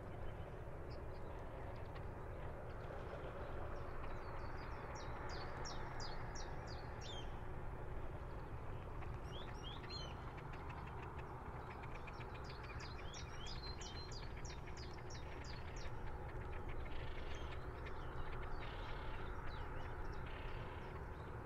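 Steady wash of river water against a breakwater, with a light breeze. A bird calls in two fast runs of short high notes, about five seconds in and again about twelve seconds in, over a faint steady hum.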